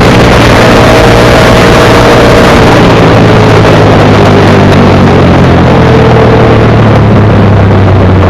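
Motorcycle engine running at a steady pitch, very loud and close to the point of overloading, under a dense rushing noise.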